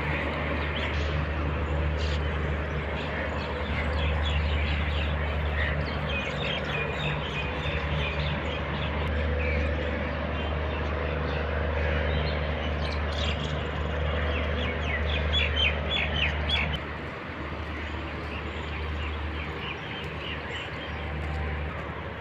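Birds chirping in the trees, many short calls with a quick run of chirps about two-thirds of the way through. Underneath runs a steady low rumble that eases off about three-quarters of the way through.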